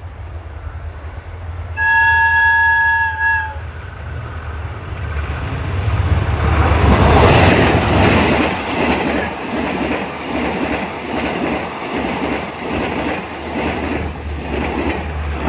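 Horn of a State Railway of Thailand Hitachi diesel-electric locomotive, one steady blast of about a second and a half, followed by the locomotive's engine swelling loud as it passes close by. After that comes the steady rhythmic clickety-clack of the passenger carriages' wheels over the rail joints.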